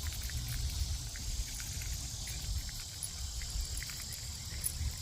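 Steady chorus of insects, an even high-pitched buzz, over a low uneven rumble.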